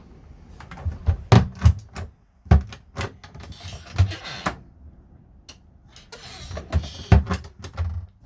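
Caravan cupboard doors and drawers being opened and shut: a string of sharp knocks and dull thumps, some in quick pairs.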